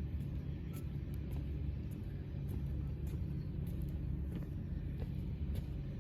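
Steady low mechanical rumble with a faint steady hum underneath.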